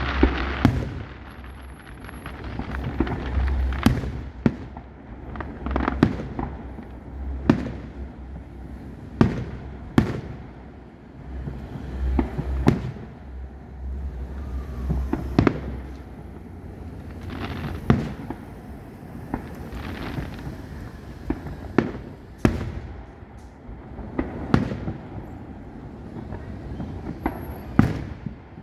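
Aerial fireworks bursting: a sharp bang every second or two, about a dozen in all, each trailing off in an echo, with smaller pops in between.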